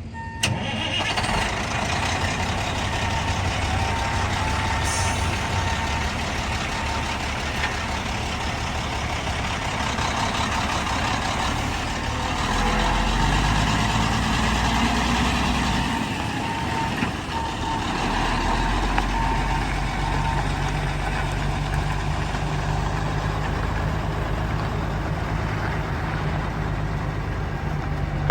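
Diesel engine of a 2001 Peterbilt 378 semi truck running steadily after a click about half a second in, picking up for a few seconds near the middle. A beeping tone sounds over it and stops about two-thirds of the way through.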